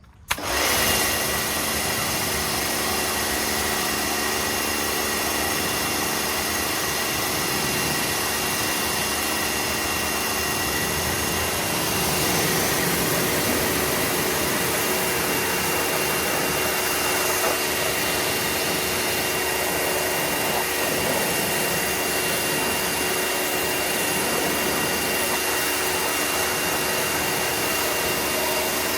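Pressure washer switched on about half a second in, then running steadily with a hissing spray and a steady high whine, as used for foaming a car with shampoo.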